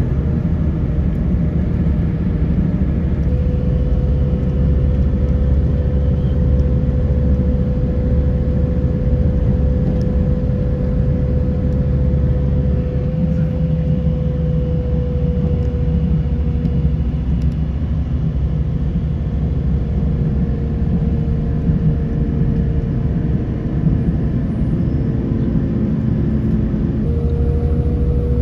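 Interior running noise of a Northern Ireland Railways Class 4000 diesel multiple unit under way: a steady loud rumble, with a faint whine over it that dips slightly in pitch partway through and rises again near the end.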